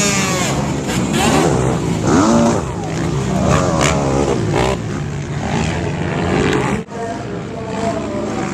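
Motocross dirt bike engines revving up and down through the gears. The level drops briefly about seven seconds in.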